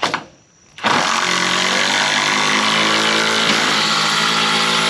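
Impact driver running steadily, driving a 5-inch lag bolt into a pine board. It starts about a second in, after a short sound at the start.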